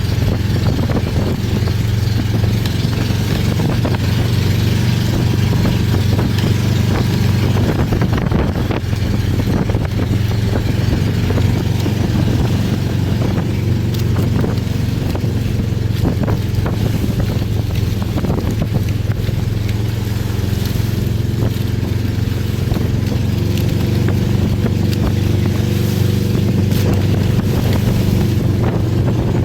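Boat engine running steadily at constant speed, with wind buffeting the microphone and water noise over it.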